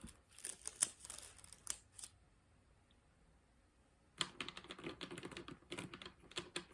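Rapid runs of small plastic clicks and taps, for about the first two seconds and again from about four seconds in, with a quiet pause between: diamond-painting drills being picked up and pressed onto the canvas.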